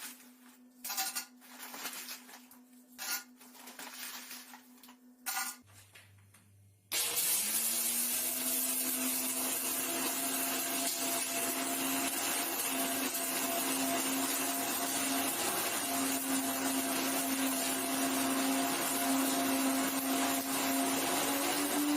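A few knocks and rattles, then about seven seconds in a powerful 2200 W high-speed blender motor starts, spins up quickly and runs steadily, grinding hard soap nut shells into powder. Its pitch rises slightly near the end.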